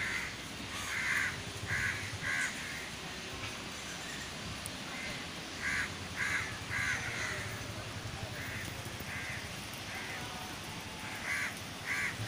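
A bird calling over and over: about a dozen short calls, mostly in loose groups of two or three.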